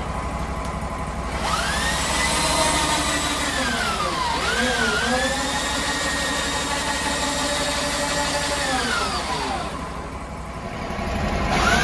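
Sawmill engine idling, then revving up and holding with a steady whine. It dips briefly under load about four seconds in, drops back to idle near the end, then revs up again.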